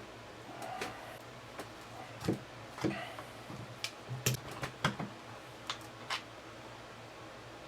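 Irregular sharp clicks and light knocks of hand tools and small electrical hardware being handled, as distribution blocks and wiring are fitted, over a faint steady hum.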